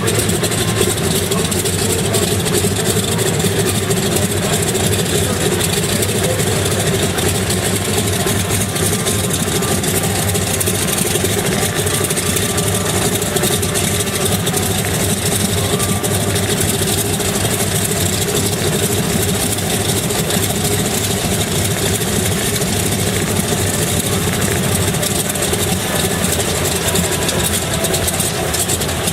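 An engine running steadily, a constant loud drone with no change in speed.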